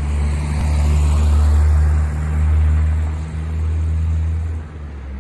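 An engine running steadily close by, a deep low drone that swells and eases, then drops off near the end.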